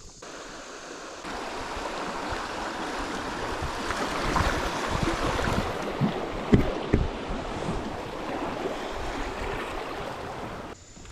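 River water running and splashing, with a few dull knocks about six to seven seconds in.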